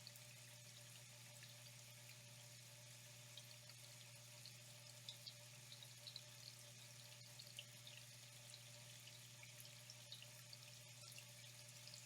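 Faint flowing water, trickling steadily with many small, irregular droplet splashes, over a steady low hum.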